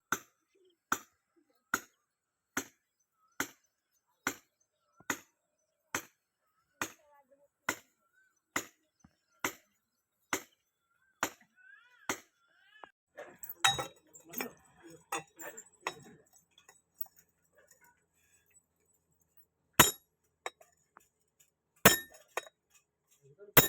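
Blacksmith's hammer striking iron on an anvil in a steady rhythm, a little over one blow a second, for about twelve seconds. Then a jumble of smaller knocks and clinks, a pause, and a few more single blows near the end.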